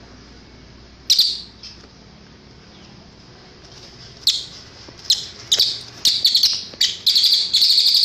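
Cililin songbird calling: a sharp high note about a second in, then from about four seconds in high calls that come faster and faster, running into a rapid continuous chatter near the end, over faint steady hiss.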